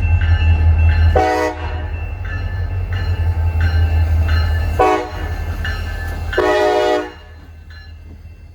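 CSX locomotive's air horn sounding three blasts, the last one the longest, over the loud low rumble of the locomotive passing, which drops away about seven seconds in. A grade-crossing bell rings steadily underneath.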